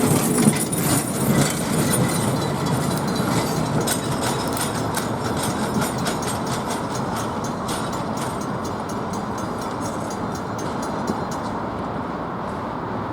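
Train cars of a caboose excursion train rolling by, wheels clicking over the rail joints over a steady rumble. The sound fades gradually, and the clicks die out near the end.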